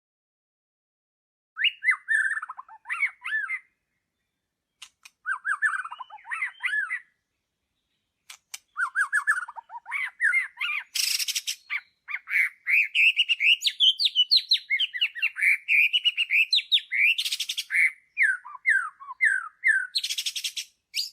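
Songbird singing in short phrases of rapid, sweeping whistled notes, with pauses between the first phrases and then a long continuous run of song from about nine seconds in. A few harsh, rasping notes are mixed into the song.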